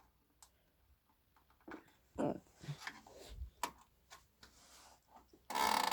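Scattered clicks, knocks and a low thud as a subwoofer's front grille is worked loose from the cabinet, ending in a louder scraping rasp near the end.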